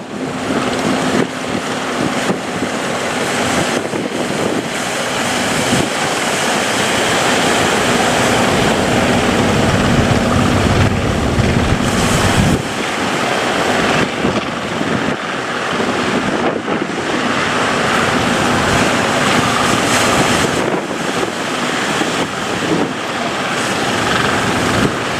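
Wind blowing on the microphone over the rush of waves at sea, with a boat's engine running steadily underneath.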